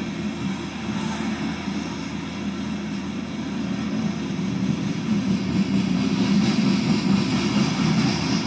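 Loaded coal cars of a freight train rolling past, a steady rumble of wheels on rail with a hiss above it, getting a little louder about halfway through. Heard through a computer's speakers.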